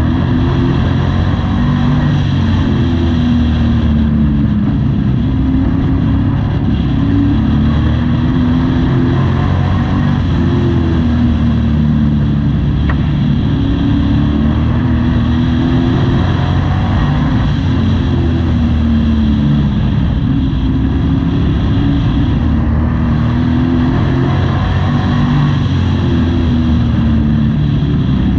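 A Pro Truck race truck's engine heard from inside the cab under racing, its pitch rising and falling again and again as the driver accelerates and lifts, with a steady rush of road and wind noise.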